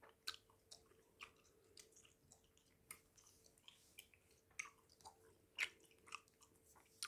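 Close-miked chewing of bubble gum: faint, irregular wet smacks and clicks of the mouth working the gum, with a faint steady hum behind.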